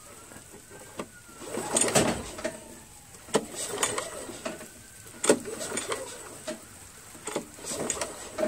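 Briggs & Stratton Quantum push-mower engine turned over repeatedly by its pull-start cord, with the spark plug out for a spark check, in surges about every two seconds with sharp clicks in between.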